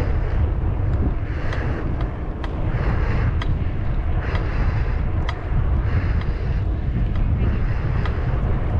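Wind buffeting the microphone of a moving bicycle's camera, with a steady low rumble. Haze swells about once a second and sharp ticks come irregularly.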